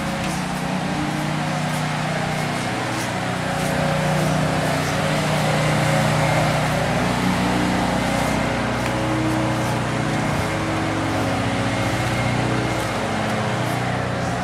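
A motor vehicle running: a steady engine hum with a slowly shifting pitch over road noise.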